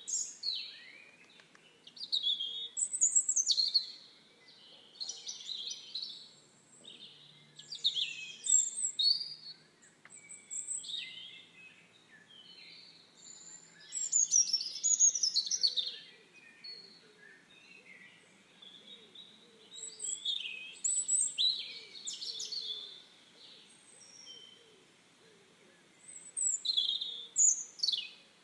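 Songbirds chirping and trilling in short high phrases, repeated every few seconds with brief pauses between.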